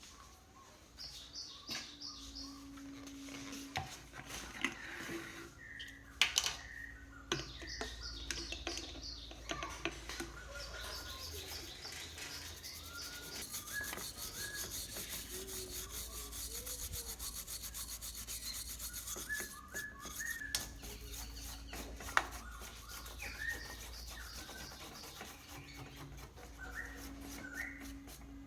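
Repeated scraping or rubbing strokes of a hand tool against a surface, densest through the middle, with birds chirping in the background.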